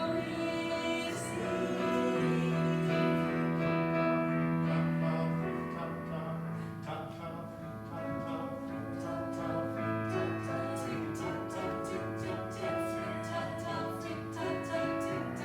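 Live musical-theatre song: long held sung notes over instrumental accompaniment, with a steady run of light high clicks joining in the second half.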